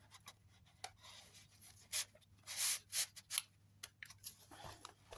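Paper and card rustling and rubbing as the pages, cards and tags of a handmade junk journal are handled and turned, with a cluster of sharper swishes and crinkles about two to three and a half seconds in.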